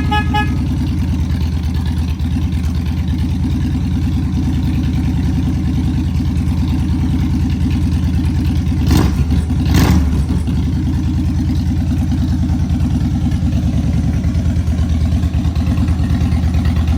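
Harley-Davidson Fatboy's air-cooled Twin Cam V-twin idling steadily with an even pulsing beat through an aftermarket Vance & Hines exhaust, shortly after a cold start. Two brief louder bursts come about nine and ten seconds in.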